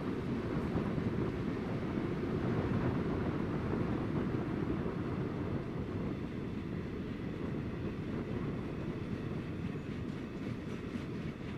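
A train running past on the line, a steady low rumble without a horn.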